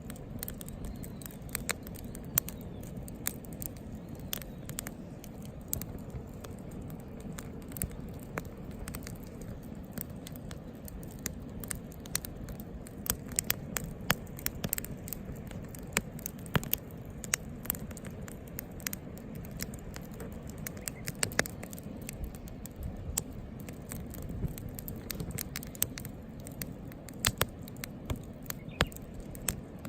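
Wood fire burning in a Picogrill fire pit, crackling with irregular sharp pops of varying loudness over a steady low rush of flame.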